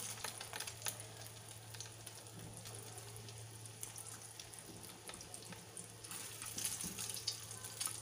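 Egg-coated beef shami kababs shallow-frying in hot oil in a pan: a steady sizzle with fine crackling pops.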